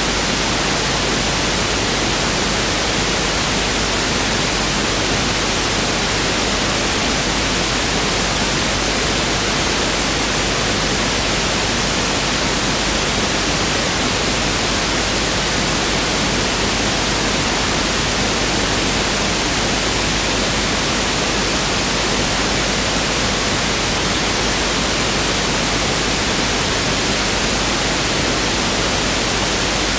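Pink noise test signal: a steady, even hiss spread across the whole range, with equal energy per octave (1/f).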